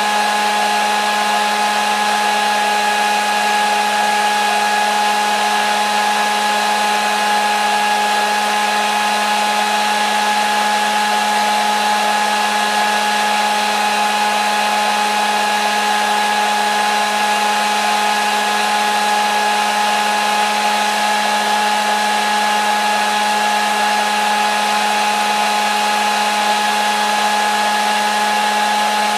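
Hair dryer running steadily: an even rush of blown air with a steady motor whine over it.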